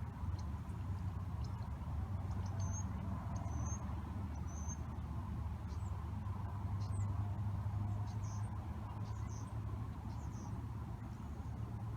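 Small birds giving short, high-pitched chirps, three quick rising ones in a row and then scattered fainter ones, over a steady low rumble.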